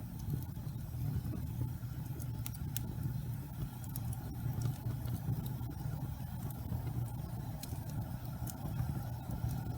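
Wood fire burning in a fireplace: a steady low rumble of flames with scattered sharp crackles and pops, roughly one or two a second.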